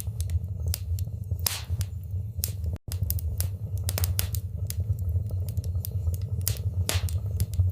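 Wood fire in a fireplace crackling, with irregular sharp pops and snaps over a steady low rumble of the flames. The sound cuts out for an instant about three seconds in.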